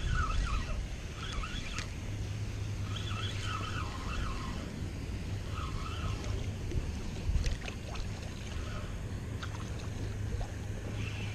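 Wind buffeting the microphone, a steady low rumble, with intermittent high chirping notes above it and a few faint clicks.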